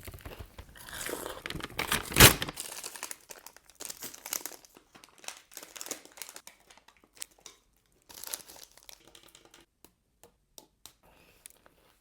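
The wrapper of a dürüm döner wrap crinkling and tearing, a dense rustle in the first few seconds with its loudest tear about two seconds in, then scattered short crinkles and a smaller rustle about eight seconds in.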